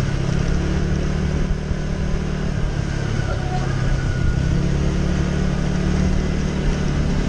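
Small underbone motorcycle's engine running steadily while riding, with wind noise on the camera's microphone.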